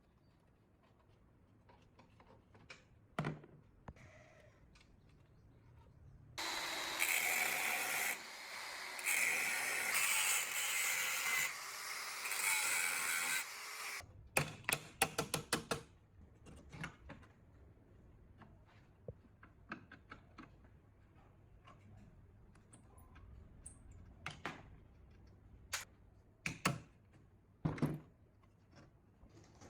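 A power tool runs for about eight seconds, then stops, followed by a quick run of sharp clicks and a few separate knocks of tools and parts being handled.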